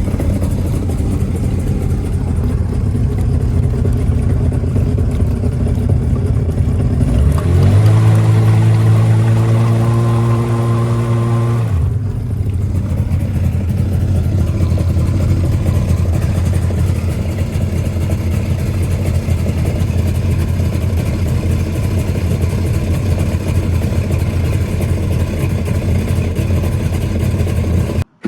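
1996 Tigershark jet ski's two-stroke engine idling steadily. For a few seconds in the middle it runs smoother and slightly faster, then drops back to a rougher idle.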